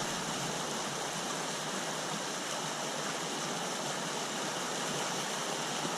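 Creek water flowing with a steady rushing sound.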